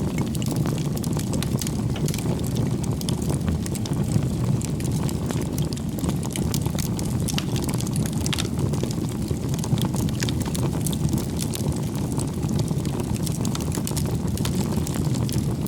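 Bonfire of firewood burning: a steady low rumble of flames with frequent small crackles and pops from the wood.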